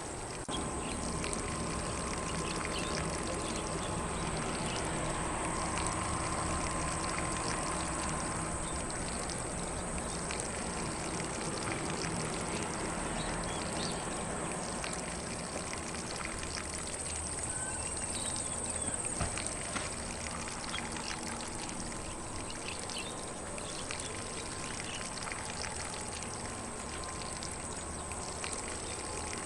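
Lawn sprinkler spraying water across grass in a steady rush, with faint bird chirps now and then.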